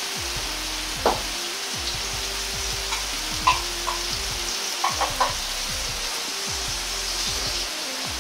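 Pork-and-tofu hamburg patties frying in oil in a wok: a steady sizzle. A few short, sharp pops come about a second in, again at three and a half seconds, and three in quick succession around five seconds.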